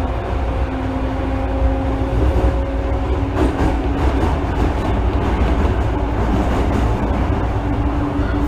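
Inside an unrenewed Osaka Municipal Subway 66 series car running on rails: steady wheel and rail rumble with thin steady motor or inverter tones, and one sharp knock about three and a half seconds in.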